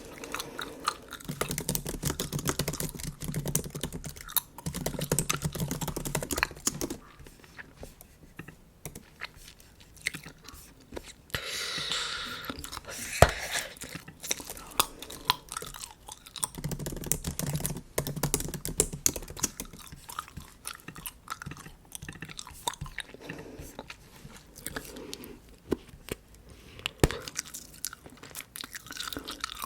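Bubble gum chewed close to the microphone: wet smacking and irregular clicks.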